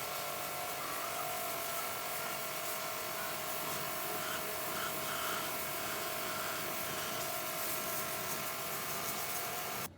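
A small handheld electric power tool running steadily with a whine over a rough rubbing hiss, cutting off abruptly near the end.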